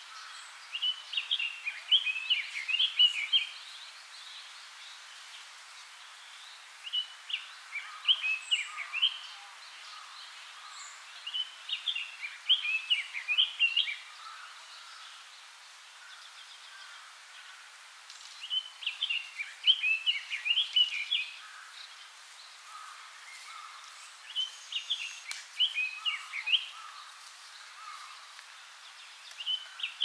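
Red-billed leiothrix singing: six fast, warbling phrases of quickly changing notes, each two to three seconds long, separated by pauses of a few seconds.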